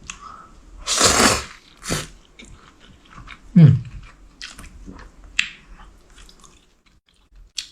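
A person eating spicy dry-fried noodles, with close mouth sounds of slurping, biting and chewing. There is a strong noisy burst about a second in and a short falling hum about halfway.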